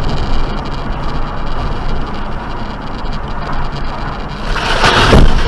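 Steady vehicle road and engine noise, then near the end a loud, short burst of noise, the loudest moment.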